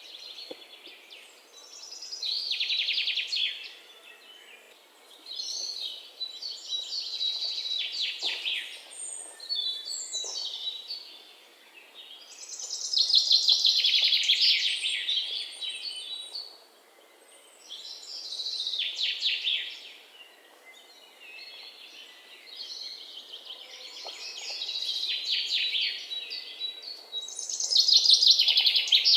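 A songbird singing a series of high, rapid, trilling phrases, each lasting a couple of seconds, with short pauses between them, over a faint background hiss.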